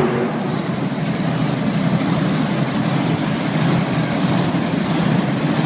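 Monster truck engine idling in an arena, a steady low rumble.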